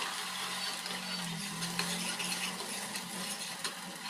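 Gravy sizzling in hot oil in a pot while a steel ladle stirs it, clinking and scraping against the pot in many small knocks. A low hum sits underneath during the first half.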